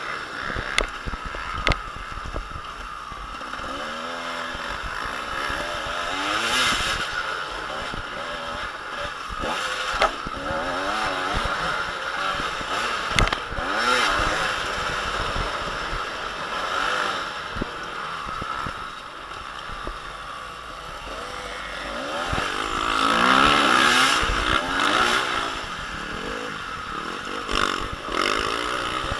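Motocross bikes' engines revving hard and dropping back as they race around the track, several pitches rising and falling over one another. They swell loudest as bikes pass about two-thirds of the way through.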